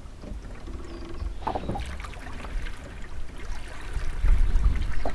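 Water sloshing and splashing around a small wooden sailing dinghy, with scattered knocks. A low rumble grows louder near the end.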